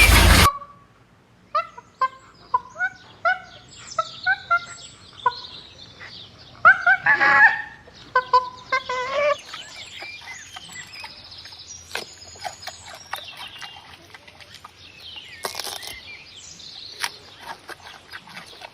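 Birds calling: a run of short repeated calls, about three a second, loudest around seven seconds in, then softer, higher chirping and twittering from about the middle on.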